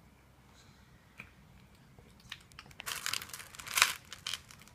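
Crinkling and crackling, like plastic or wrapper being handled, in a burst lasting about a second near the end, after a few small clicks and taps.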